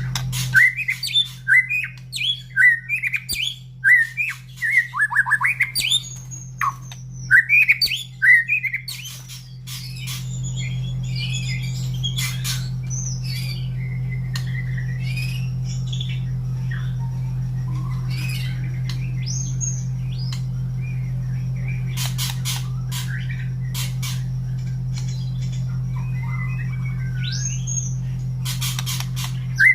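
White-rumped shama (murai batu) singing loudly in quick repeated phrases for about the first nine seconds, then with sparser whistles and calls. From about ten seconds a steady low hum becomes the loudest sound, with scattered clicks over it.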